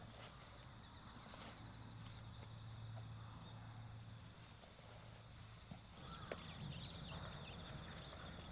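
Night insects trilling in a steady high pulsing chorus that grows stronger near the end, with a few sharp crackles and pops from a wood campfire.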